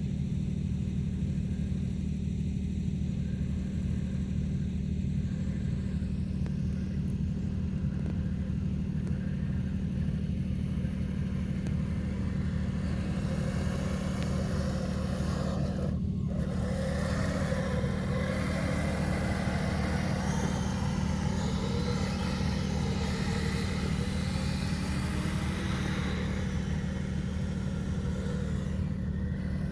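Electric motor and gear drive of a Kyosho Blizzard radio-controlled tracked vehicle whining over a steady low hum. The whine wavers up and down in pitch with the throttle during the second half.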